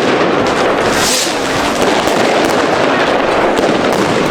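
Many fireworks and firecrackers going off all around, a dense run of sharp cracks and bangs, with a brief hiss about a second in.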